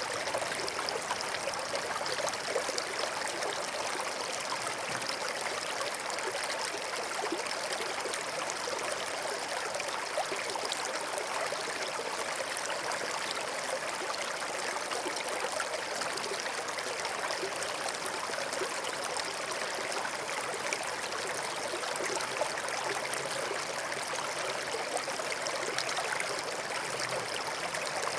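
Small forest stream flowing over stones, a steady babbling and trickling of water.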